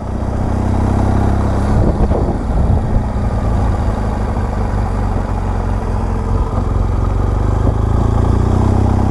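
BMW R1200GS Adventure motorcycle's boxer-twin engine running at a steady speed.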